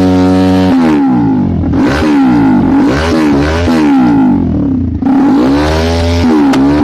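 TVS Apache 200's single-cylinder engine revved through its exhaust: held briefly, then blipped up and down repeatedly, the pitch rising and falling with each blip.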